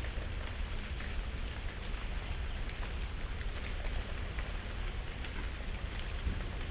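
Dry autumn leaves falling through the branches and onto the leaf litter in a still deciduous forest: a light, scattered pattering of small ticks that sounds like sparse rain. Thin, high bird calls come now and then, over a steady low rumble.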